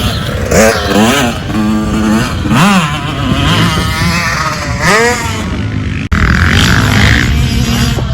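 Motocross dirt bike engines revving, their pitch climbing and falling repeatedly through the gears and throttle changes, at times more than one engine at once. The sound cuts off for an instant about six seconds in.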